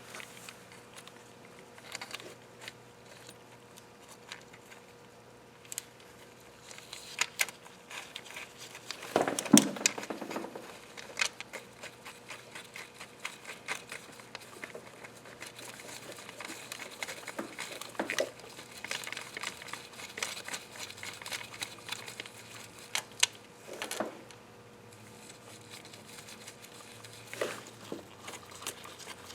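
Scattered clicks and metallic clinks of hand tools and bolts while timing chain parts are fitted to an engine, with a louder clatter about nine seconds in.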